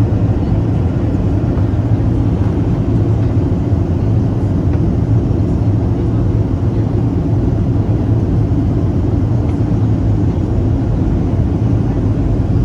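Steady, loud drone of a Boeing 737-800's CFM56-7B jet engines, a constant low rumble with an even hum and no rise or fall.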